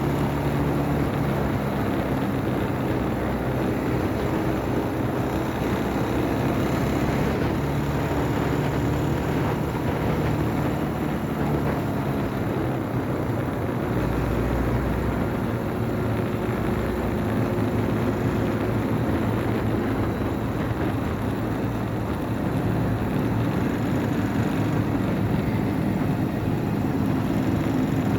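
Motorcycle engine running steadily while riding, its pitch shifting a little now and then, under a constant hiss of road and wind noise.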